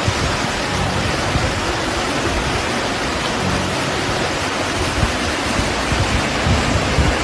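Heavy storm downpour: a dense, steady hiss of rain, with irregular low rumbles coming and going underneath, heaviest near the end.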